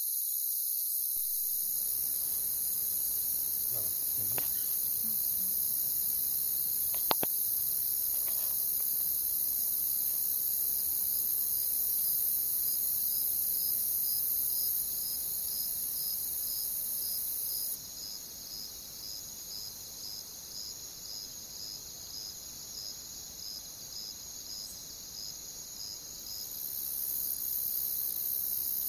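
Night chorus of crickets trilling steadily, with one cricket chirping about twice a second through the middle stretch. A single sharp pop from the campfire comes about seven seconds in.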